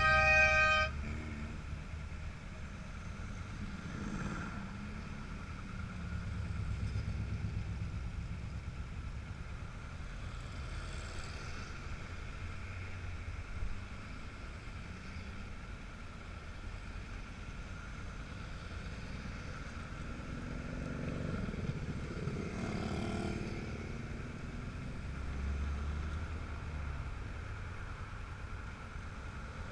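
Classic cars and motorcycles in a slow procession, their engines running at low speed and swelling and fading as they pass one after another. A car horn is still sounding at the start and stops about a second in.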